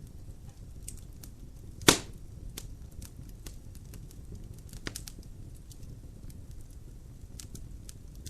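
Logs burning in a fireplace: a low steady rumble of flame with scattered small crackles, one loud sharp pop about two seconds in and a smaller pop near the middle.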